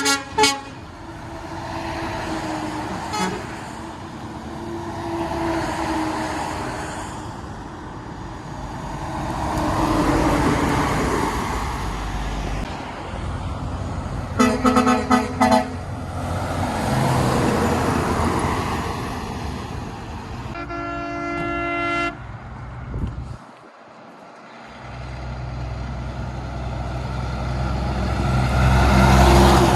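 Heavy trucks passing one after another on a road, each swelling and fading. About halfway through a truck's horn sounds in a few short blasts, a longer horn note follows about six seconds later, and a deep engine rumble builds near the end as another truck approaches.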